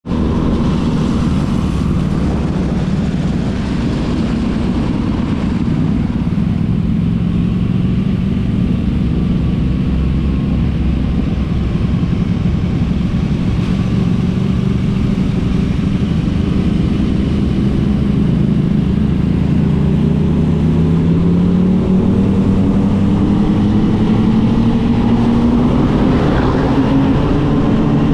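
Kawasaki Vulcan S 650's parallel-twin engine running while the motorcycle is ridden, its pitch climbing steadily over the last several seconds as the bike accelerates.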